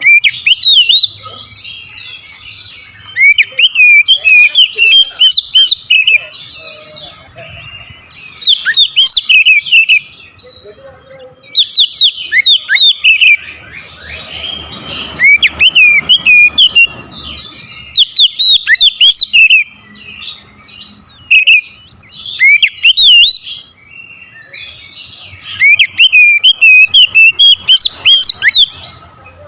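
Oriental magpie-robin (kacer) singing loudly in full, aggressive song, as a bird provoked by a rival does. It sings repeated bursts of rapid, high, varied whistles and chirps, each phrase a second or two long with short pauses between.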